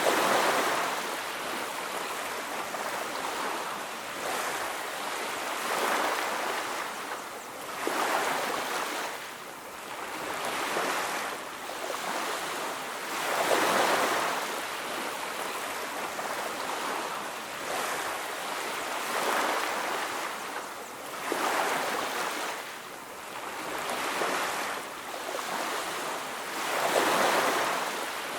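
Ocean surf on a beach: waves break and wash up in a steady rushing hiss that swells and ebbs, with a louder breaker every few seconds.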